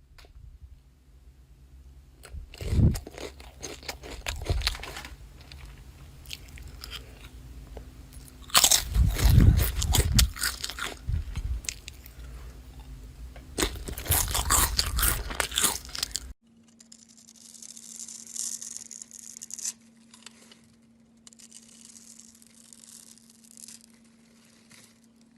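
Crunchy slime being squeezed and pressed, a dense crackling with heavy low thumps. About two-thirds through it cuts suddenly to a softer, hissy crackle.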